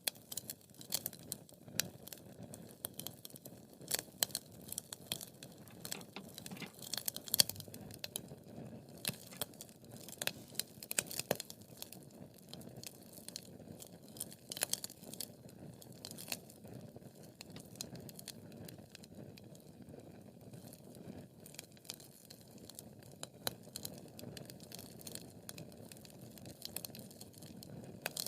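Wood fire crackling in a fireplace: irregular sharp snaps over a low, steady rush of burning. The snaps come thickest in the first half and thin out later.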